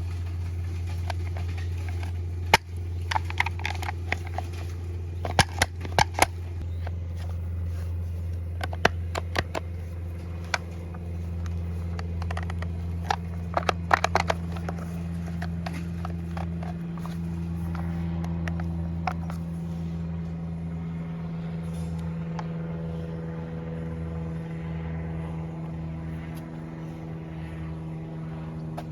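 Stihl FS 250 brush cutter's two-stroke engine running with a steady low hum. Scattered sharp clicks and cracks come over it in the first half, and from about 17 seconds in the engine note steps up and wavers.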